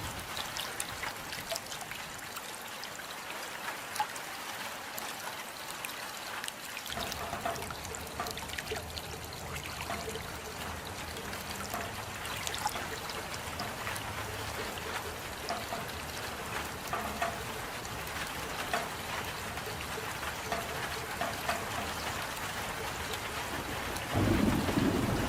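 Steady rain falling, an even hiss with many small drops ticking. A low rumble joins about a third of the way in, and a louder low rumble swells near the end.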